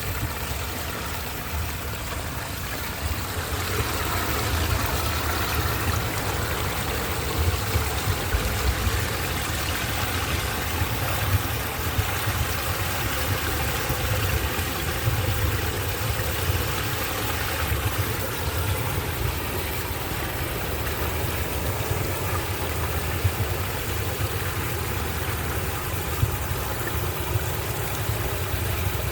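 Floodwater pouring and swirling down a parking-lot storm drain in a whirlpool: a steady rush of water with a deep rumble underneath.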